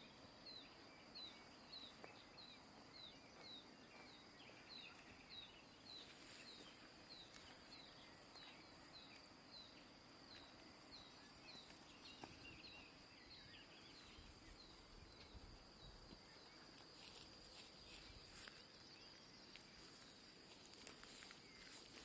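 Faint outdoor ambience: a bird repeating a short, high, falling note about twice a second, fading out after about ten seconds, over a steady high insect drone such as crickets. A few faint clicks near the end.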